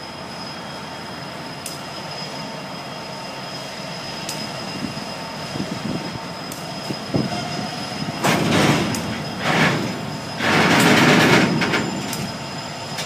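Coal train hopper cars rolling slowly past, a steady rumble with a thin, steady high-pitched wheel squeal. Strong gusts of wind buffet the microphone from about 8 seconds in.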